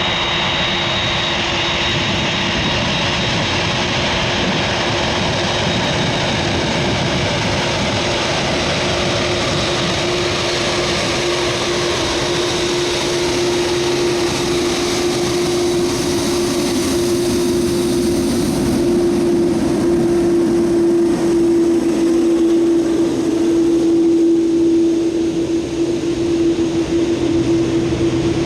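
Airliner engines running as an aircraft moves near the airfield: a broad, steady rushing noise with a strong hum that grows louder through the second half and sinks slightly in pitch.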